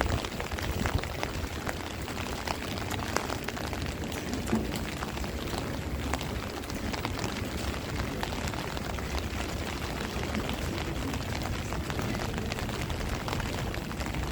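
Heavy rain falling in a strong wind: a steady hiss of rain with many scattered sharp drop ticks, over a low rumble of wind buffeting the microphone.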